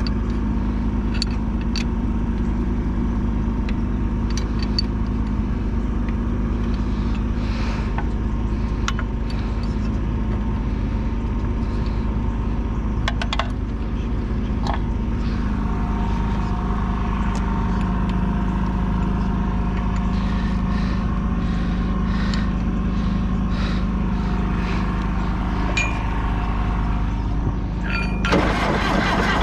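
A diesel engine running steadily with a low, even drone, with scattered light clicks and rattles over it; the sound turns suddenly noisier near the end.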